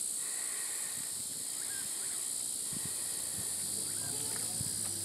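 Evening insect chorus: a steady, high-pitched buzzing, with a few short chirps about one and a half seconds in and again near four seconds.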